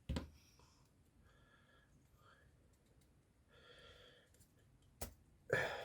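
Faint handling of the vibratory pump's small parts as it is taken apart: a sharp click at the start, another click about five seconds in, then a short rustle.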